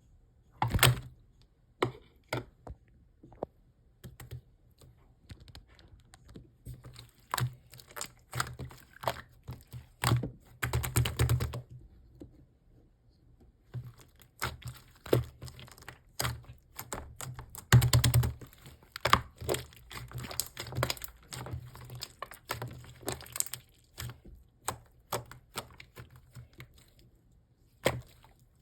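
Pink slime being pressed, stretched and squeezed by hand, giving irregular sticky clicks and pops. The clicks come in bursts separated by short quiet gaps, with a dense crackling run about a third of the way in and again past the middle.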